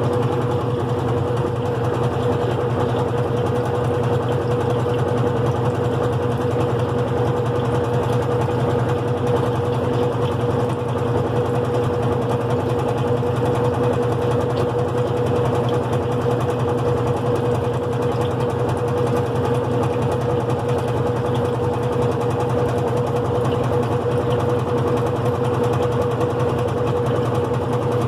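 GE Profile top-load washing machine running steadily with a bedding load, its single-speed motor giving a continuous hum with a fast fine rattle.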